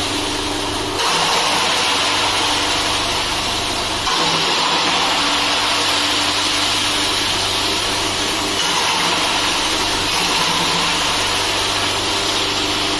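Bamboo wood chipper running steadily: a motor hum under a dense, even grinding noise, stepping up abruptly in loudness about a second in and again about four seconds in.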